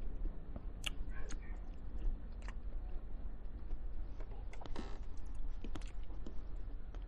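Close-up eating sounds: chewing of roast chicken and rice, with scattered short mouth clicks. A steady low hum runs underneath.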